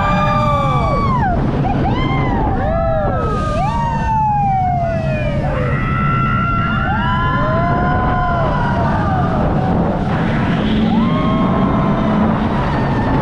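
Several riders screaming on a roller coaster, many overlapping rising-and-falling cries, over a steady rumble of wind and ride noise.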